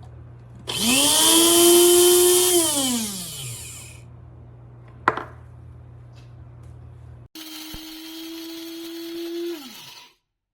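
Amazon Basics electric blade coffee grinder's motor run in two short bursts: it whirs up to speed, runs about two seconds and winds down with a falling whine. After a sharp click it runs again for about two seconds and winds down.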